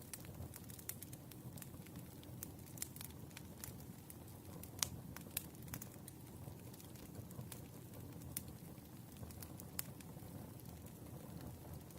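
Wood fire burning steadily with a low rumble, popping and crackling at irregular moments, with a sharper pop about five seconds in.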